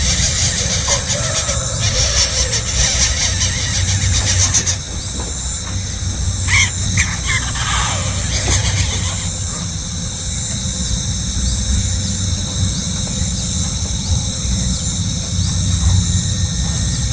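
A steady high-pitched insect drone over a low rumble, with a short cluster of high calls about six to eight seconds in.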